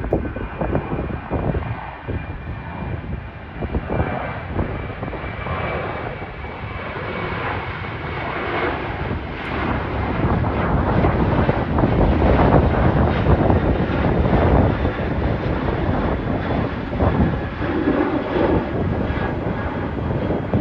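Departing jet airliner at takeoff thrust, its engine roar growing louder through the first half and staying loud, with a faint high whine early on. Wind buffets the microphone throughout.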